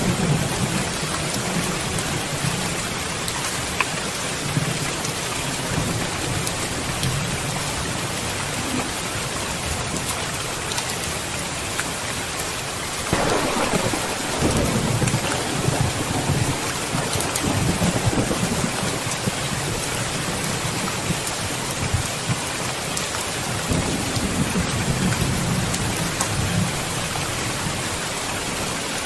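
Steady rain falling, with rolling thunder underneath. A stronger thunder rumble starts suddenly about halfway through and rolls on for several seconds, and another rolls in near the end.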